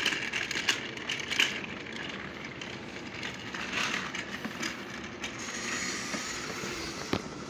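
Battery-powered Thomas & Friends TrackMaster toy trains running on plastic track: a steady motor whir with wheel rattle, and a sharp click near the end.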